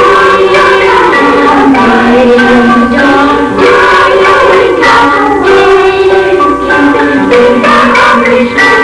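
Children's school choir singing a Christmas song with instrumental accompaniment.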